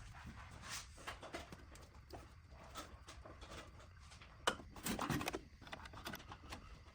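Scattered light clicks and taps of small parts being handled. There is a sharper knock about four and a half seconds in and a short cluster of knocks just after.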